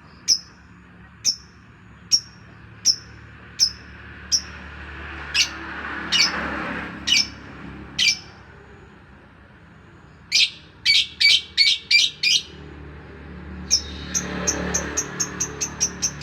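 A songbird giving short, sharp, high chirps, about one a second at first. Later come quicker runs of notes, and near the end a fast, even series of about four chirps a second.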